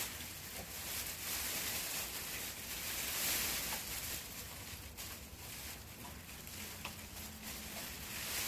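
Mylar emergency blanket rustling and crinkling as it is handled and hung up, over a faint steady low hum.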